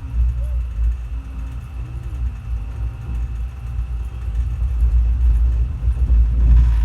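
Passenger train running: a steady low rumble.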